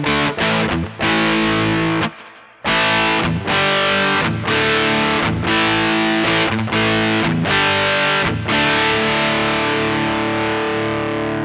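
Custom Les Paul-style electric guitar with GFS Alnico 5 pickups, played with heavy distortion through a Peavey ValveKing II tube amp. Chords are struck and cut short in a rhythm, with a brief break about two seconds in, and a chord is left ringing near the end.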